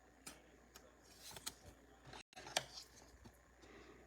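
Faint, scattered clicks and rustles of trading cards being handled, slid and set down one by one while a pack is sorted.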